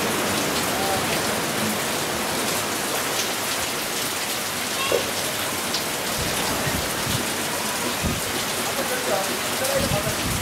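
Monsoon rain pouring steadily onto a swimming pool, a constant even hiss of drops on water. A few low thuds come in the second half.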